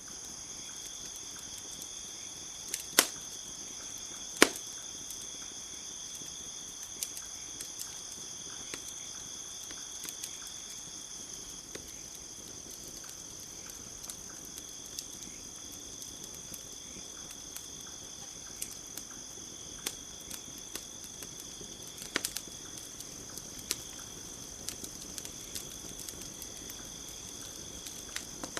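A campfire crackling, with scattered small snaps and two loud sharp pops a few seconds in, over a steady high-pitched chorus of insects trilling.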